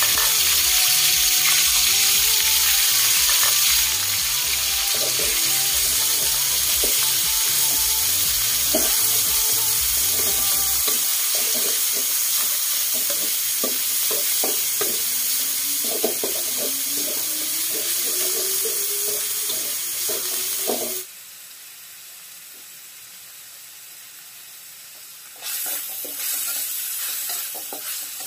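Minced pork and garlic sizzling in hot oil in a wok, stirred and scraped around the pan with a wooden spatula. The sizzle falls away sharply a little after twenty seconds in and picks up again near the end.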